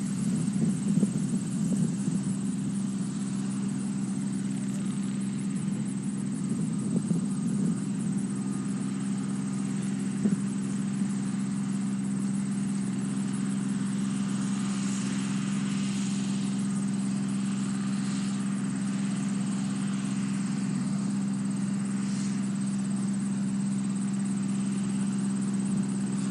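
A steady, unbroken low motor hum.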